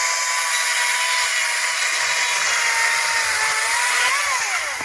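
ECHO DCS-2500T 56 V battery chainsaw running at full speed, its electric motor and chain giving a steady whine while cutting through a small pine log. The pitch sags slightly under load, jumps briefly near the end, then winds down as the trigger is let go.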